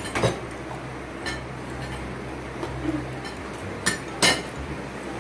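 Tableware clinking during a meal: spoons and forks tapping plates and a steel bowl in several sharp, separate clinks, the two loudest close together near the end, over a steady low hum.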